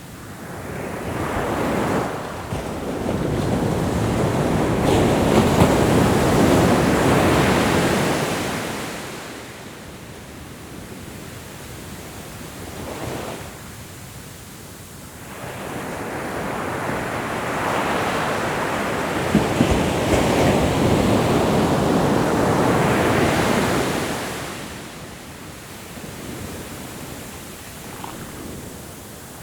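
Ocean surf: two long waves rushing in, each building and fading over about eight seconds, their peaks roughly fourteen seconds apart, with a brief smaller swell between them.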